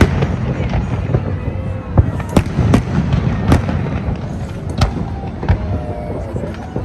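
New Year fireworks display: a string of sharp bangs and pops from bursting shells over a continuous low rumble of explosions.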